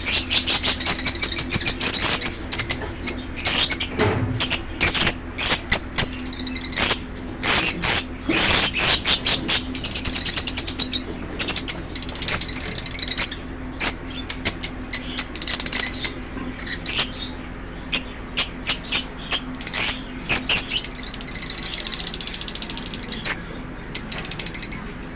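A colony of green Fischer's lovebirds chattering, with many sharp, high-pitched chirps and squeaks in quick succession, over a steady low hum.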